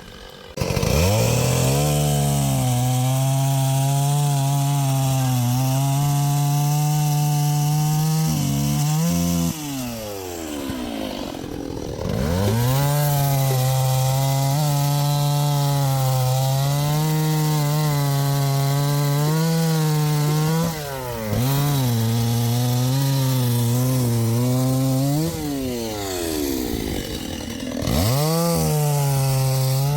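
Two-stroke chainsaw, a STIHL MS 381, cutting wood at full throttle in three long bursts. The engine revs up just under a second in, eases off and winds down around ten seconds in and again near twenty-five seconds, and revs back up between cuts.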